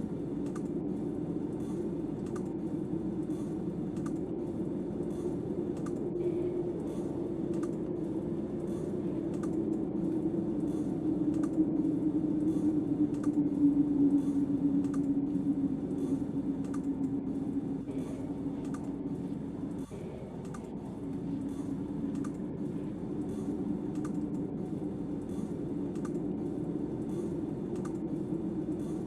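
Snowstorm wind howling as a steady low drone that swells for a few seconds in the middle, with faint, evenly spaced clicks running through it about once or twice a second.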